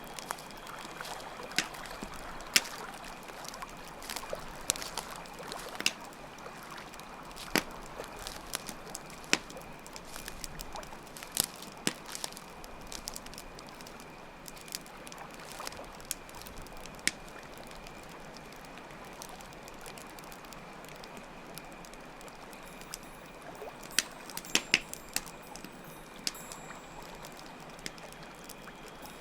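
Layered nature ambience: a campfire crackling with sharp, irregular pops over steadily running water, with crickets chirping as a faint steady high trill underneath.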